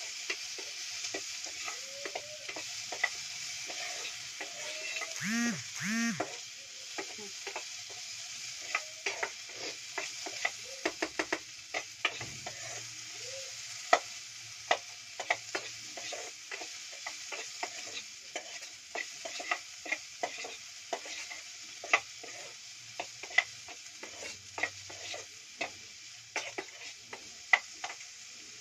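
Garlic, onion and ginger sizzling in a little oil in a small electric pot, with a steady frying hiss and a spoon clicking and scraping against the pot as they are stirred.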